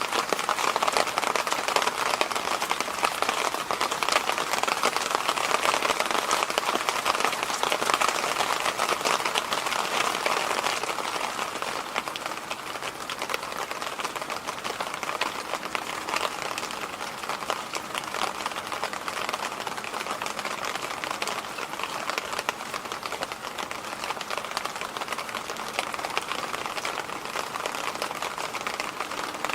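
Electric fan running steadily: an even rush of air noise with a fine, grainy texture, easing a little in level after about ten seconds.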